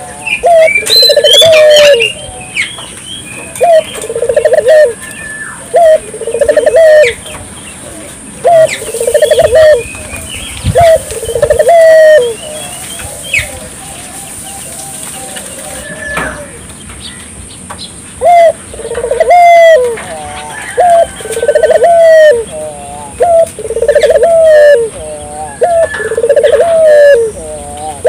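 Domestic collared doves (burung puter) cooing over and over, each coo about a second long and loud, with a lull in the middle. Smaller birds chirp at a higher pitch among the coos.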